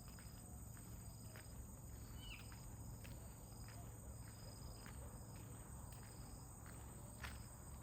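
Faint outdoor ambience of insects chirping, short high chirps repeating about once a second over a steady high hiss. Light clicks, likely footsteps, are scattered through it, with a single brief rising bird chirp a couple of seconds in.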